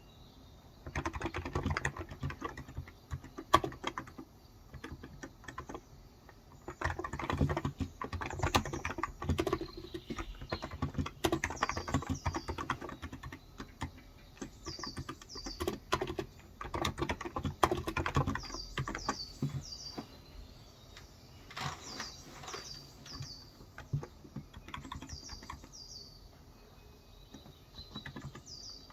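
Typing in bursts on a Cox Endeavour tenkeyless keyboard with electrostatic capacitive (Topre-style) 35 g switches, with a pause about four to six seconds in. From about eight seconds in, a bird calls again and again in short high chirps, often in pairs.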